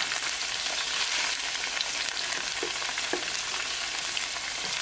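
Tofu slabs sizzling in hot olive oil in a frying pan, a steady hiss, with a few light knocks of a wooden spatula against the pan as the pieces are pushed around.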